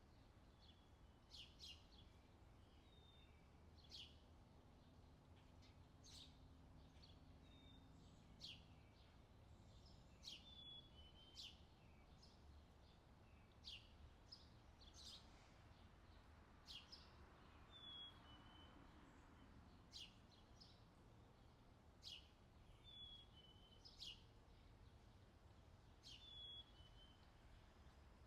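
Faint recorded outdoor summer ambience: birds chirping in short, quick downward-sweeping calls every second or two, over a low steady background hum.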